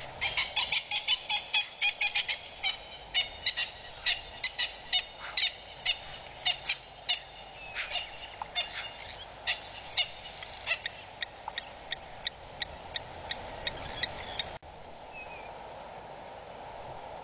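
A bird's repeated short, sharp calls, several a second at first and then more spaced out, cutting off suddenly near the end.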